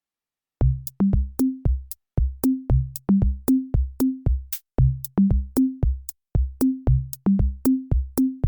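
Background music: an electronic drum-machine beat with short, punchy bass notes in a quick, even rhythm. It starts after about half a second of silence.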